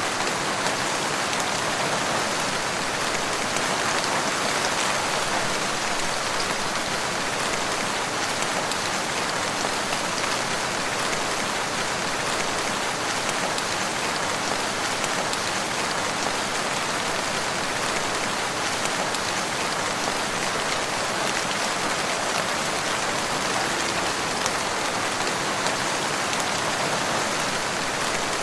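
Steady rain falling: an even hiss at constant loudness, with faint ticks of single drops here and there.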